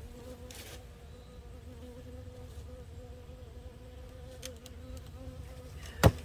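Honey bees flying around open hives, a steady buzzing hum. A single sharp knock comes near the end.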